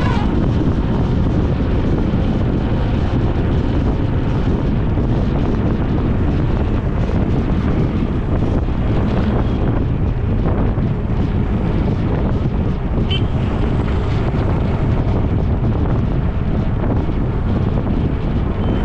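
Wind buffeting the camera microphone on a moving ride, with road noise: a loud, steady, dense rumble without pauses. A brief high chirp sounds once about two-thirds of the way through.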